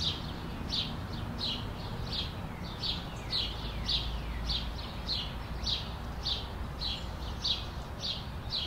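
A songbird calling over and over: a short, high note that slides downward, about twice a second, over a faint low outdoor rumble.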